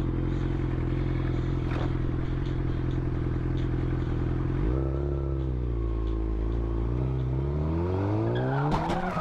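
Motorcycle engine running at a steady note, dropping in pitch about four and a half seconds in, then rising steadily as the bike accelerates. Near the end a burst of clattering noise cuts in.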